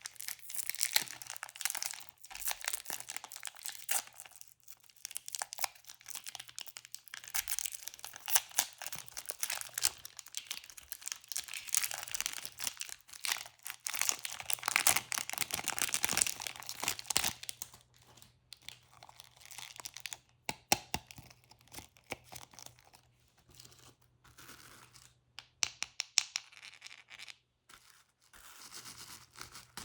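Plastic candy wrappers being crinkled and torn open by hand: dense rustling for most of the time, thinning to scattered crackles and clicks in the last third.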